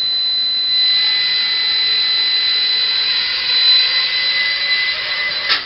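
Walkera Ladybird micro quadcopter's motors and propellers spinning up to a steady high-pitched whine, lifting it only about an inch off the ground. The whine cuts off suddenly with a sharp click near the end.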